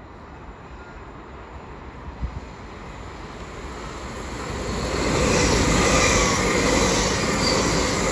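Lumo Class 803 electric train passing through the station at speed: a rush of wheel and rail noise that builds over a few seconds and is loud from about five seconds in.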